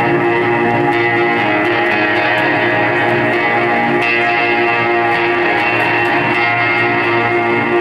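Live band music led by electric guitar playing long, sustained ringing chords at a steady loudness.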